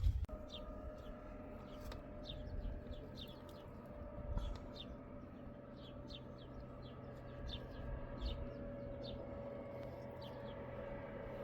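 A small bird chirping over and over in short, falling high chirps, about two a second, over a steady low mechanical hum.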